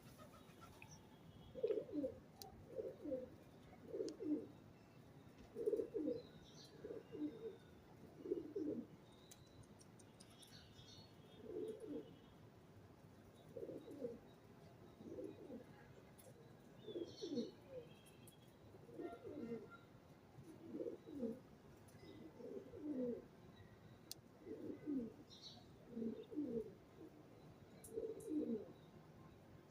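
A pigeon cooing, a run of short, low coos repeated about once a second, some bunched in twos and threes, with a few faint chirps of small birds above it.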